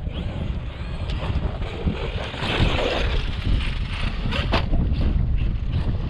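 Wind buffeting the microphone while an electric RC monster truck drives over dirt, with a louder stretch of hiss about halfway through and a few sharp clicks.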